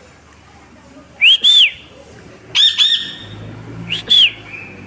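Pet parrot giving loud, shrill whistled calls in three quick pairs about a second and a half apart, each note rising and falling in pitch.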